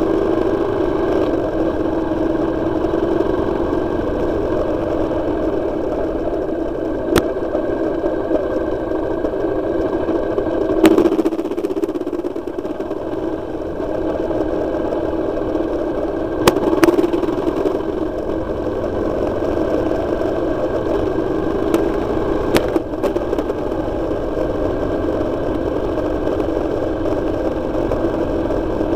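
Motorcycle engine running steadily while riding along a winding road, with a few sharp clicks scattered through it.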